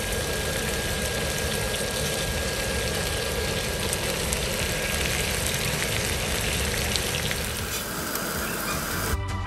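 Boneless chicken thighs sizzling steadily on a hot ridged griddle pan, with a few faint clicks over the sizzle.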